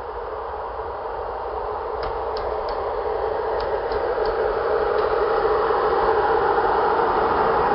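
A Romanian CFR electric locomotive hauling a passenger train approaches, its running noise growing steadily louder, with a few faint clicks between about two and four seconds in.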